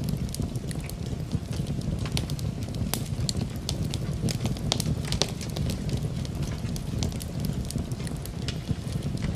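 Wood fire burning in a fireplace, crackling with frequent irregular snaps and pops over a steady low rumble.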